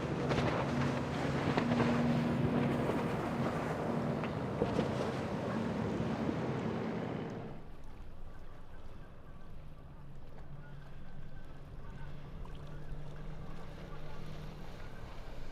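Boat engines running, with wind buffeting the microphone and water rushing. About seven and a half seconds in, the sound drops suddenly to a quieter, steady low engine hum.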